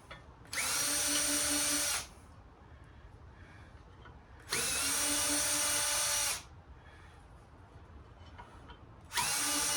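Power drill driving screws out of the saw's gauge mounting, running in three short bursts with a steady whine that rises briefly as each starts.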